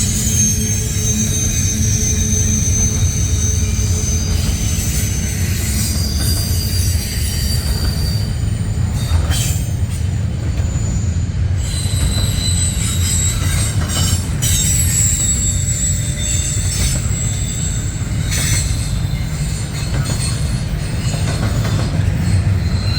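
Intermodal freight cars of a Norfolk Southern train rolling past in a steady low rumble, with thin high-pitched wheel squeal and a few sharp clanks of wheels over the rails.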